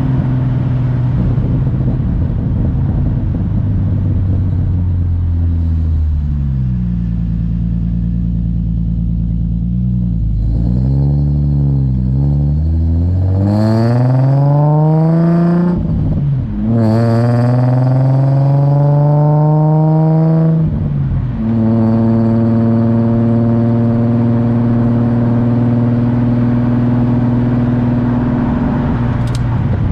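Nissan 350Z's 3.5-litre V6 through an Invidia Gemini exhaust: idling, a few small blips of the throttle, then two long revs climbing high and dropping sharply, before settling back to a steady idle.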